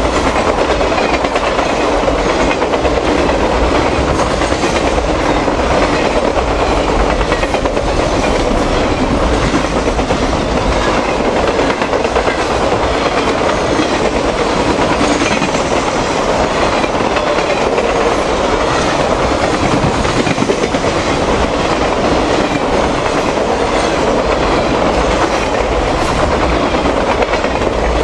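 Norfolk Southern Triple Crown RoadRailer train rolling steadily past at close range, its wheels clicking over the rail joints in a continuous rumble.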